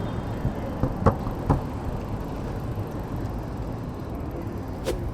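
Riding noise from a hire e-bike moving through city traffic: a steady low rumble of wind and road, with a couple of short knocks about a second in and a sharp click near the end.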